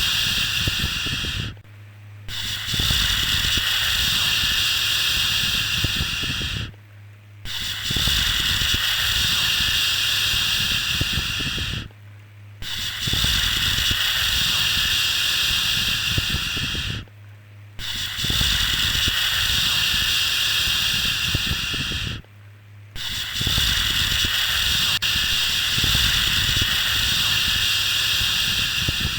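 Soothing 'shhh' shushing sounds for a baby, each held about four to five seconds and repeating with a short break between them. A low steady hum runs underneath.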